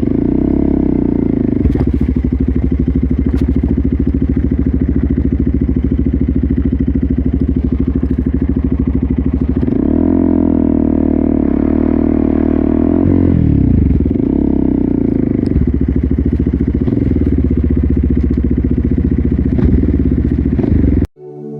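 KTM Duke 200's single-cylinder four-stroke engine through an Akrapovic full-system exhaust, running at a steady low note, with the revs swelling up and back down about ten seconds in and again briefly a little later. It cuts off suddenly near the end as electronic music comes in.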